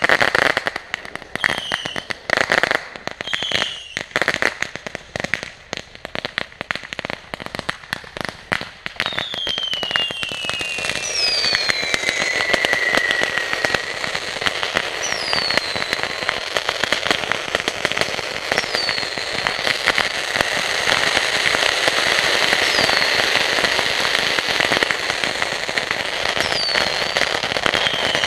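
Backyard fireworks going off: rapid crackling and popping with a few short whistles for the first several seconds. About nine seconds in a long falling whistle starts, then a steady hissing spray with a short falling whistle every few seconds.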